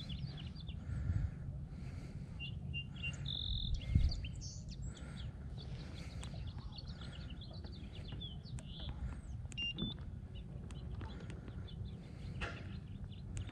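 Small birds chirping and calling, with many short high chirps and whistles, over a steady low rumble. One sharp bump about four seconds in is the loudest sound.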